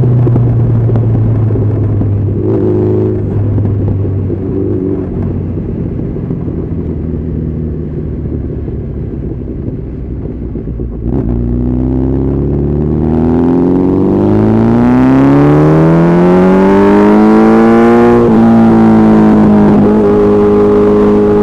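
Honda CB1300SF's inline-four engine. It runs at a low, slowly falling pitch for about ten seconds, then the throttle opens sharply and the pitch climbs steadily for several seconds. A gear change follows, and then it holds a steady higher note.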